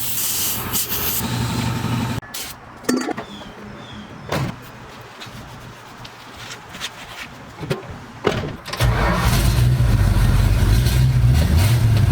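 A low hum that stops about two seconds in, then a few clunks and knocks. About nine seconds in, the 318 V8 of a 1973 Dodge D100 pickup comes in suddenly, running steady and low-pitched.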